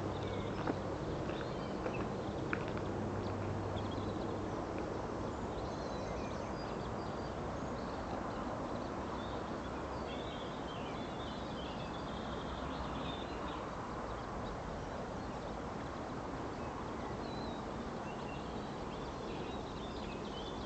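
Birds chirping faintly and intermittently over steady background noise, with a few sharp clicks in the first few seconds.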